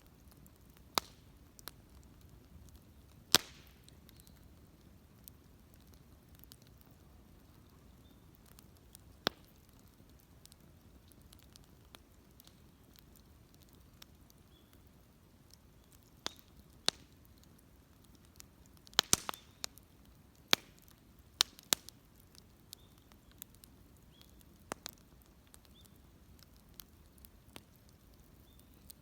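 Wood fire crackling, with irregular sharp pops: a single loud one a few seconds in and a quick cluster of them about two-thirds of the way through.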